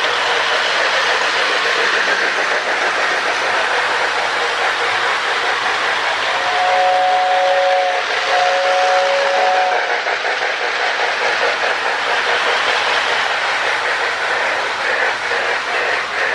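Marx 1666 O-gauge toy steam trains running on the track with a steady rattle. A two-note Lionel air whistle in the baggage car sounds two blasts, about six and eight seconds in.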